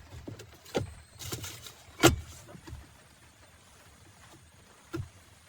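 Sharp clicks and knocks of a small package being broken open by hand, the loudest about two seconds in and one more near the end.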